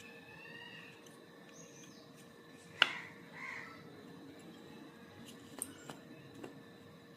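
Faint bird calls, crow-like caws among them, with one sharp click about three seconds in and a few lighter ticks later.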